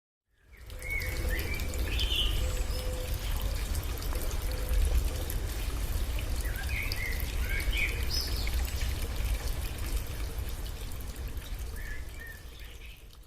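Flowing, trickling water with a deep rumble underneath and a few short bird calls scattered through; the sound fades in at the start and fades out at the end.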